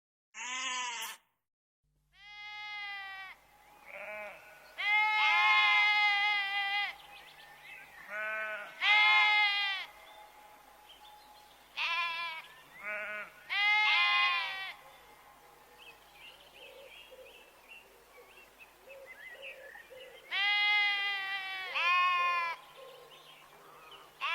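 Sheep bleating, about ten calls of half a second to two seconds each, some short and some drawn out, with a quieter stretch in the middle before more bleats near the end.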